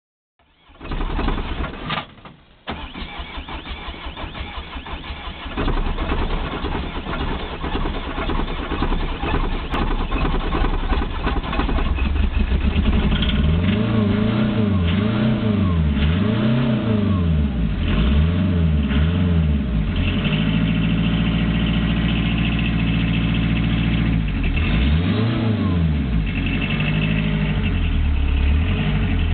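Citroën BX turbo diesel engine starting after standing a long time: it cranks and catches unevenly, then runs rough before settling. About halfway through it is revved up and down several times, then idles steadily, revved once more near the end.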